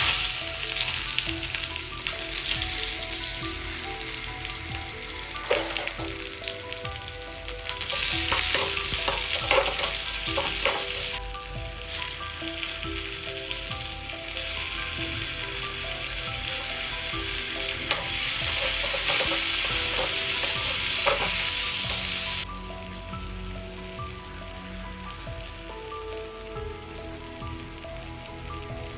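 Food sizzling as it fries in a hot pan, starting suddenly, with scattered clicks and scrapes of stirring. The sizzle grows louder for stretches in the middle and settles lower near the end.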